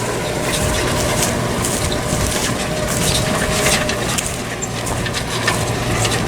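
Tractor engine running steadily with a constant hum as it pulls a plough toward the headland, with irregular crackling noise close to the microphone.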